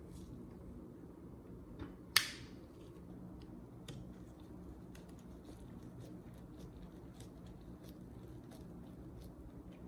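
One sharp knock with a short ring about two seconds in, then scattered light clicks, over a steady low hum.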